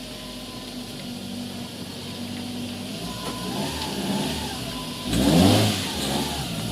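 Car engine idling steadily after an ignition misfire repair, then revved up briefly about five seconds in before settling back.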